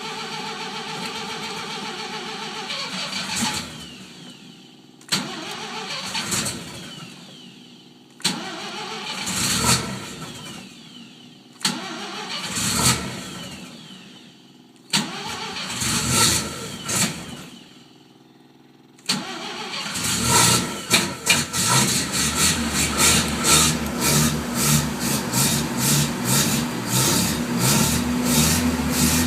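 1983 Mazda RX-7 GS's 12A rotary engine being cold-started without a choke on a Weber carburettor: it fires up in several short bursts that each die away, then catches about two-thirds of the way through and keeps running roughly with uneven pulses.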